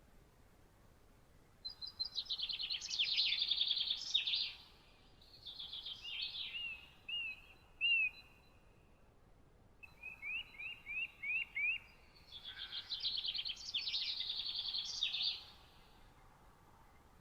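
Songbird singing: two long, fast twittering phrases of trills, with runs of short slurred whistle notes between them.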